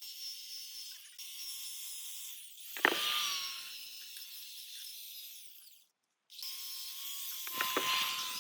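A small power tool whining steadily as it works on metal, over a high hiss, louder about three seconds in. The sound cuts off abruptly for a moment, then starts again.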